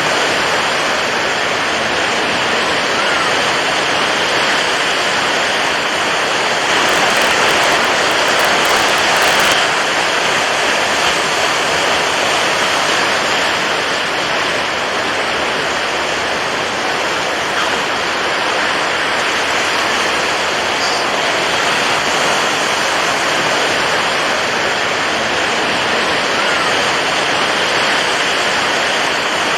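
Continuous rushing water, an even, steady hiss of water noise that swells slightly about a quarter of the way in.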